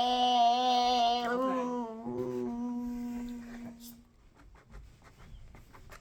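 A child's voice holding one long hummed note at a steady pitch. It fades out about four seconds in, leaving a few faint taps.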